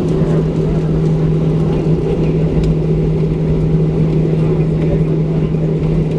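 Steady drone inside a Boeing 737-700 cabin on the ground, with a constant low hum over an even rumble.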